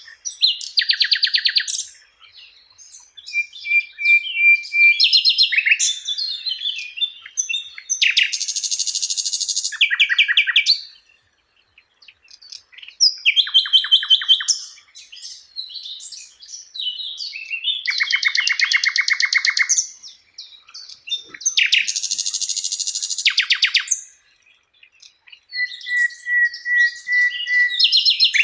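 Sikatan londo flycatcher singing continuously: phrases of fast, rattling trills alternate with long steady whistled notes, broken by short pauses twice.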